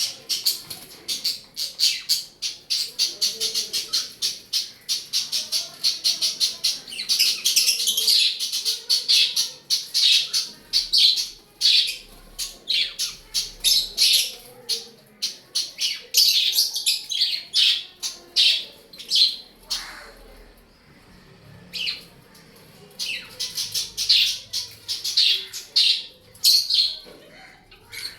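Pet birds in a cage chirping and chattering, a dense stream of rapid, short high-pitched calls, with a short lull about two-thirds of the way through.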